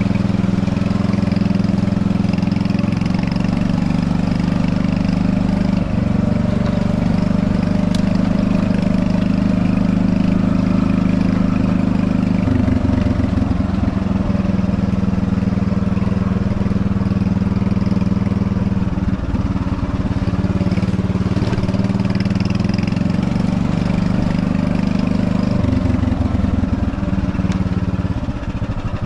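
Golf cart powered by a Predator 301 single-cylinder gasoline engine, running steadily with a few shifts in pitch. Near the end it slows to a lumpier putter.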